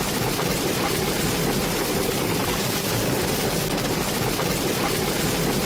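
Steady rushing storm noise, even and unbroken, heaviest in the low range.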